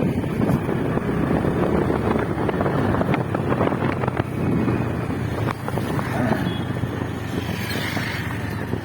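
Motorcycle on the move: engine and road noise with wind buffeting the microphone.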